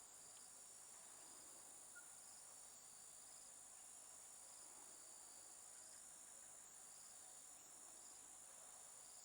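Faint tropical forest insect chorus: a steady high-pitched drone with a shorter pulsing call repeating about once a second over it.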